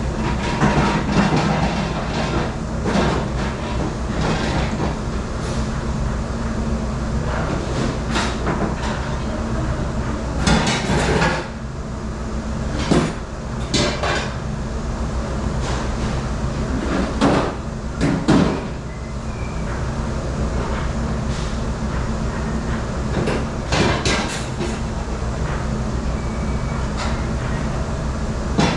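A commercial dish machine running with a steady rumble and hum, with dishes, racks and utensils clattering and clanking at irregular moments.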